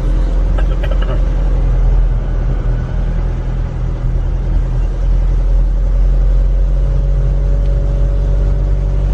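Steady low drone of a car's engine and road noise, heard from inside the cabin.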